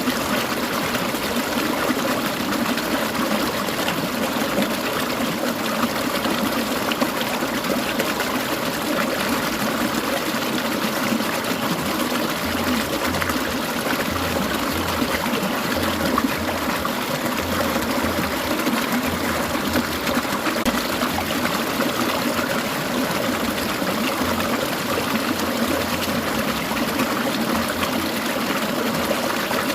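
Clear mountain stream trickling and babbling over rocks, a steady, unbroken water sound.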